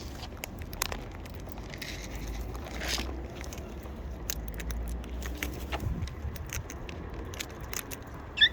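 Scattered small clicks and crackles of birdseed and a feeding bucket being handled, over a steady low rumble. A short bird call comes just before the end.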